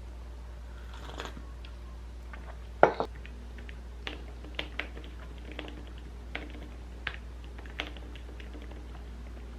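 Scattered light clicks and taps of small objects being handled, with one louder knock about three seconds in, over a steady low hum.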